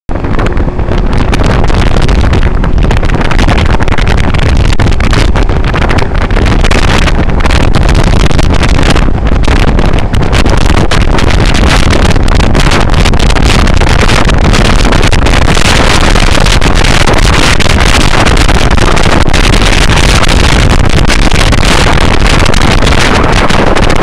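Heavy wind noise on the microphone over the rush of a boat moving fast across water, steady and very loud throughout.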